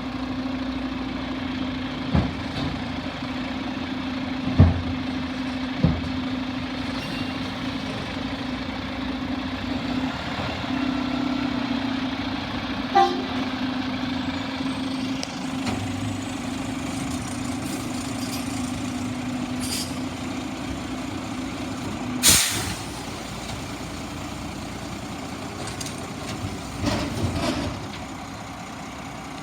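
Garbage truck running with a steady low drone and occasional clunks. About two-thirds of the way through there is a loud short air hiss, and the drone cuts off. A brief clatter follows near the end.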